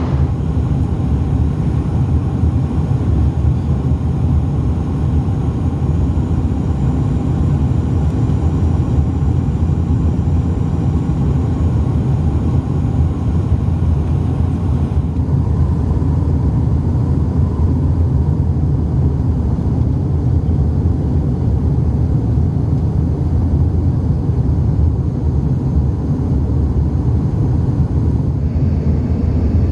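Cabin noise of a Dash 8 turboprop airliner on approach: the engines and propellers make a loud, steady low drone. The higher hiss drops about halfway through.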